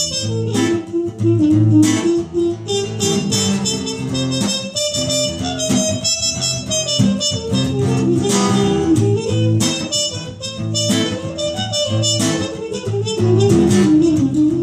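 Instrumental break in a live acoustic song: strummed acoustic guitar under a sustained melody line, with no singing.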